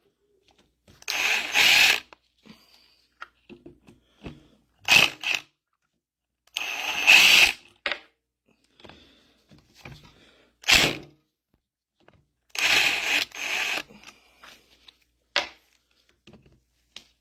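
Compressed-air blow gun blowing out the passages of a hydraulic control valve body, in about six short blasts of air, a few seconds apart, the longest about a second.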